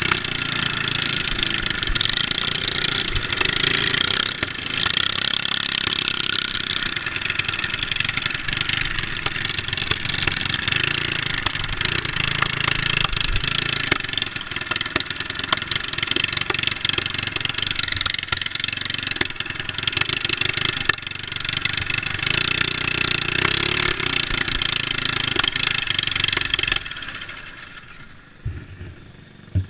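Mini bike's small engine running loud and steady under throttle, then going much quieter suddenly near the end.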